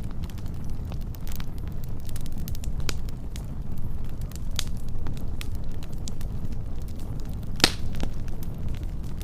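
Wood fire crackling: a steady low rumble of flames with many scattered sharp pops and snaps, the loudest a single pop about three-quarters of the way through.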